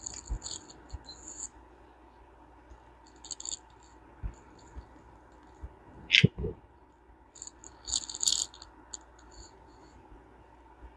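Small metal parts of a vintage push-button fishing reel clicking and clinking as they are handled, in three short clusters with one louder knock about six seconds in.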